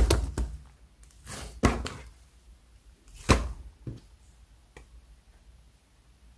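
Slime being pressed and poked by hand: several sharp pops and crackles in the first two seconds, a few more between about three and five seconds in, then it goes quiet.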